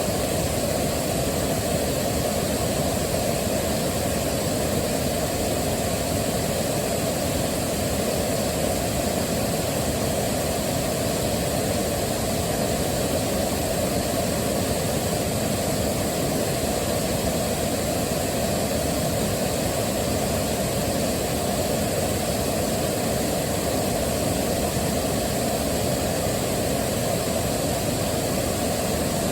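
Waterfall: water rushing and falling in a steady, unbroken roar, heaviest in the low and middle range.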